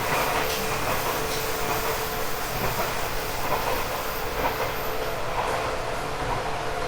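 Running sound inside a 1978 JR 189-series express motor car, with its MT54 DC traction motors and gearing giving a steady whine over the rumble of the wheels on the track. Scattered clicks come from the wheels passing over the rail.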